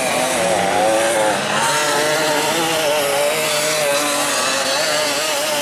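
Dirt bike engines revving hard, the pitch wavering up and down as the throttle is worked over rough ground.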